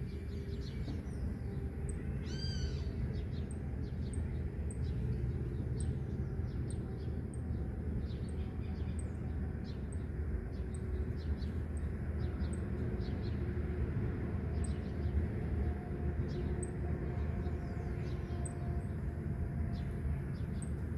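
Many birds chirping over a steady low rumble of wind and distant road traffic. About two and a half seconds in comes one short, high call with several overtones, and a faint high tick repeats about once a second.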